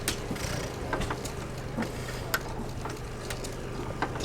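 An engine running steadily with a low hum, with irregular sharp metallic clicks and ticks over it.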